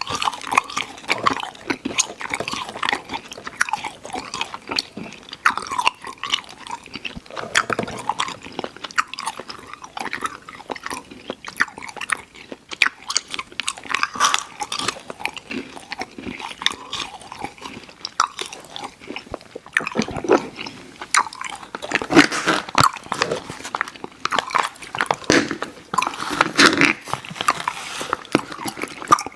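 Close-miked mouth sounds of chewing a sour chewy candy, Airheads Xtremes: continuous irregular wet clicks and smacks with no pause.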